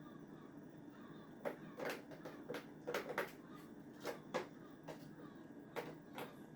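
A kitten at play: about a dozen light, irregular taps and clatters, starting about a second and a half in and bunched most closely around the middle, over a faint steady room hum.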